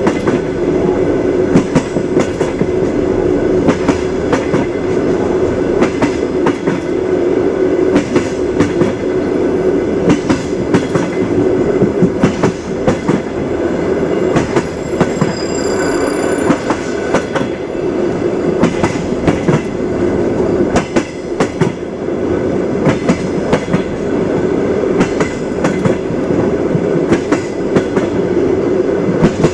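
A moving train's wheels running on the rails, a steady rumble broken by irregular clacks as the wheels cross rail joints. About halfway through there is a brief faint high-pitched whine, like wheel squeal.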